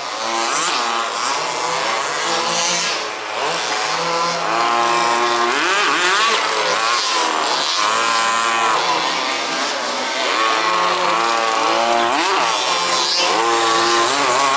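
Several 1/5-scale petrol two-stroke RC buggy engines racing together, each repeatedly revving up and dropping back in pitch as the buggies accelerate and slow, the buzzes overlapping.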